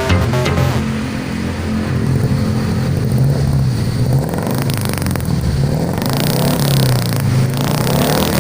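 Carbureted Suzuki Carry Futura engine running through a newly fitted 4-3-1 header and HKS muffler, its exhaust note rising and falling with light revs. A higher hiss joins it about six seconds in.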